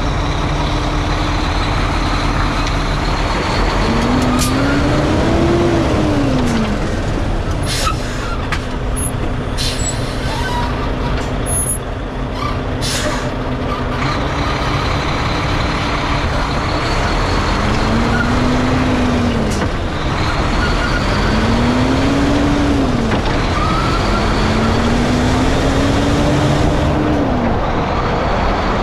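Volvo semi truck's diesel engine running, its pitch rising and falling several times. A run of short compressed-air hisses comes in the first half.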